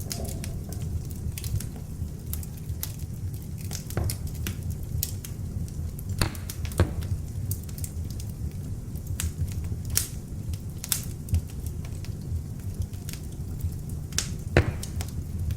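Beech-log fire burning in an open fireplace: a steady low rumble of flame with frequent sharp crackles and pops at irregular moments, a few louder pops about six seconds in and near the end.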